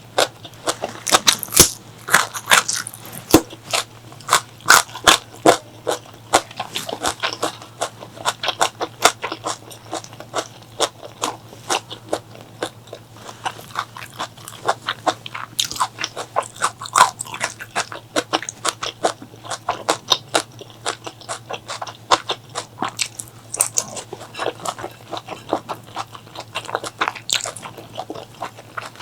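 Close-miked biting and chewing of food, a steady run of crunchy, wet clicks and crackles at several per second. A steady low hum sits underneath.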